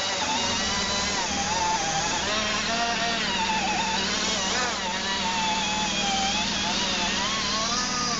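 Power drill running continuously, its pitch wavering up and down as the load changes while it cleans rust off a truck wheel hub.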